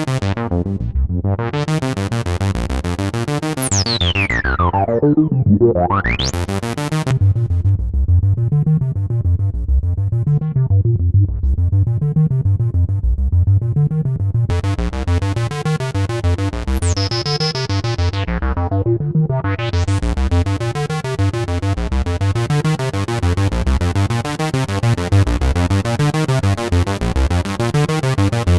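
Korg Minilogue XD hybrid analog polyphonic synthesizer playing a factory preset dry, without effects: a repeating low bass pulse about once a second under a shifting chord pattern. A bright resonant filter tone sweeps down from very high and back up about four to seven seconds in, and sweeps down again around seventeen to nineteen seconds in.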